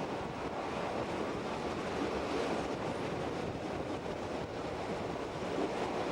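Steam-hauled train running on the line, heard as a steady, even rush with no distinct beats.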